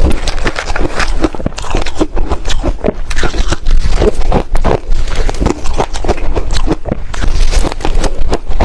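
A person chewing ice, a steady run of loud, irregular crunches and cracks as the ice breaks between the teeth.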